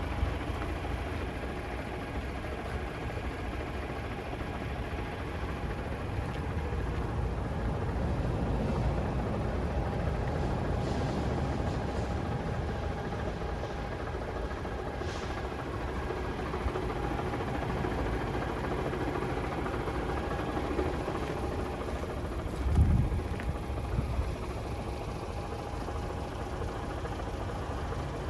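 DAF CF480 tractor unit's 480 bhp PACCAR diesel engine idling steadily, with one brief low thump late on.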